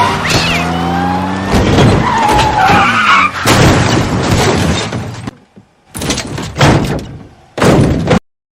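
Car crash sound effect: a car with tyres screeching, then a loud smash about a second and a half in, followed by more crashing and shattering. Further impacts come near the middle and end, and it cuts off suddenly near the end.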